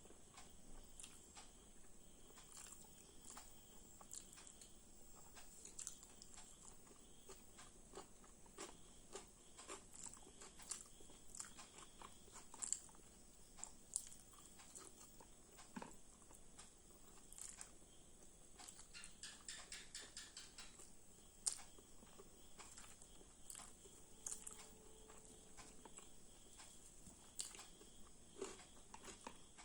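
Faint close-up eating sounds: chewing and biting, with irregular sharp crunches and mouth clicks, including a quick run of them about two-thirds of the way through.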